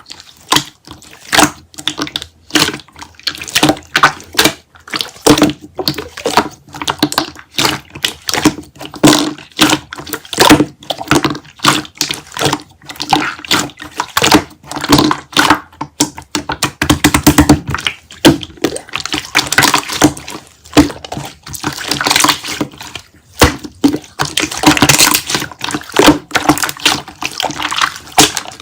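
Slime being squished and worked by hand: a dense, irregular run of wet clicks and pops, growing into a thicker crackle for several seconds near the end.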